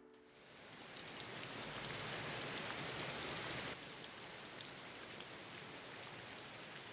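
Steady hiss of falling water, swelling over the first two seconds and dropping a little in level a few seconds later.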